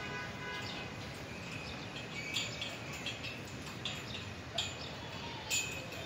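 Birds chirping in short calls about once a second over steady outdoor background noise; the loudest chirps come a little past two seconds in and near the end.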